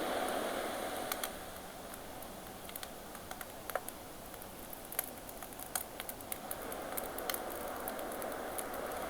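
Campfire crackling with scattered sharp pops over the wash of ocean waves; one wave recedes about a second in and the next swells in near the end.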